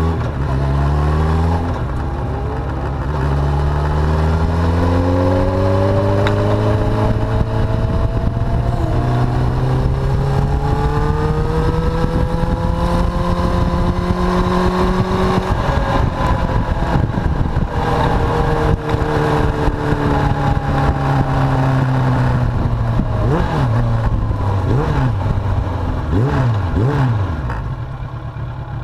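Suzuki GSX750F inline-four motorcycle engine under way, its note climbing, dropping at a gear change about nine seconds in, climbing again, then easing off, over steady wind rush. Near the end there are several quick rises and falls in engine pitch.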